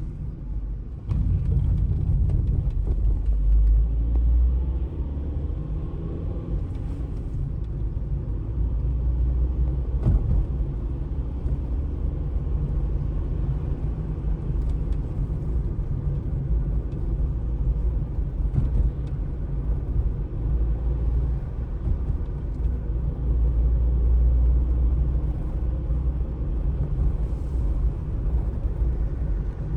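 Outdoor street ambience dominated by a steady low rumble, with a few faint ticks.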